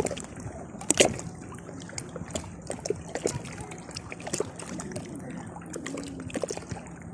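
Seawater sloshing and splashing in small, irregular splashes, with a steady low hum underneath.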